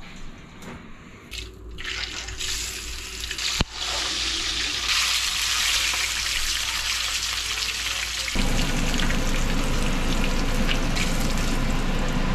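Small surgeonfish pan-frying in hot oil: a steady sizzle that comes in about two seconds in, after a few light clicks. About eight seconds in, a low steady rumble joins the sizzle.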